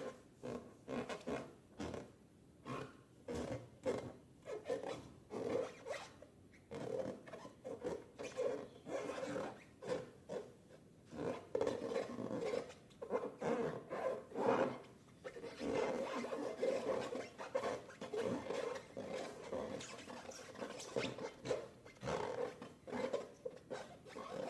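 Slime being squeezed and worked by hand, a steady run of short squishing, rubbing sounds, a few each second.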